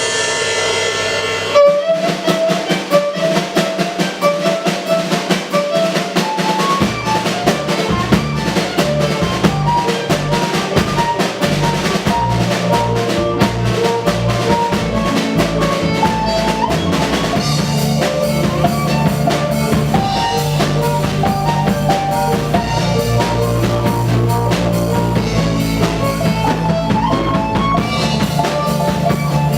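A live band plays an instrumental passage: a drum kit comes in hard about two seconds in, with a stepping melody line over it, and a bass line joins about seven seconds in.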